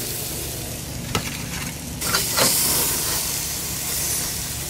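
Salmon fillets in a teriyaki and soy marinade sizzling on a hot grill. The hiss grows stronger about two seconds in, and a few sharp clicks come over it.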